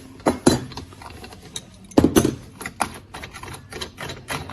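Irregular clicks and knocks of metal parts being handled as an angle grinder is taken apart to fit a cutting stand, with a louder knock about two seconds in.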